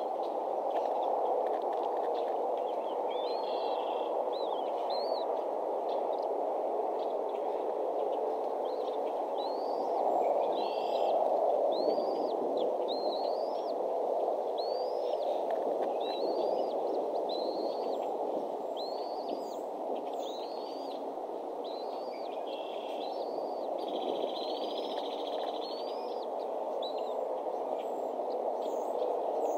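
A bird chirping over and over in short, high notes that rise and then drop, about one a second, over a steady low rushing background.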